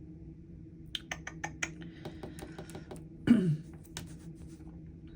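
A quick run of sharp key taps, as of typing, then a few fainter taps. About three seconds in there is one short, louder sound that falls in pitch, followed by a last click.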